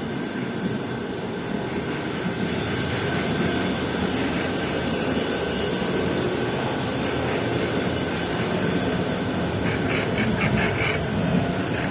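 Intercity electric multiple-unit train running: a steady rumble with a faint constant whine, and a quick run of clicks near the end.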